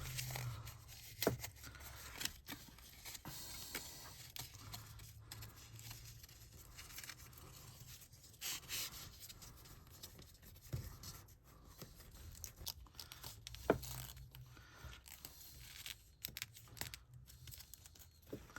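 Paper and cardstock being handled: soft rustling with scattered light taps and clicks, the sharpest a little under fourteen seconds in.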